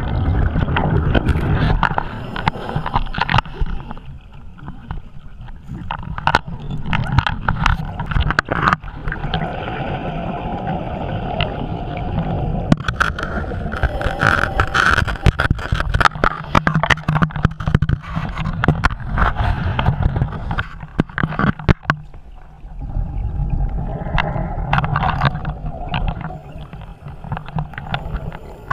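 Scuba diver's regulator underwater: gurgling exhaled bubbles in long surges, with many sharp clicks and knocks through them.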